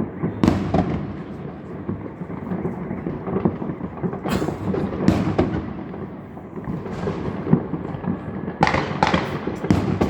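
Fireworks going off: a steady run of bangs and crackling from a salvo display, with a quick cluster of sharp reports near the end.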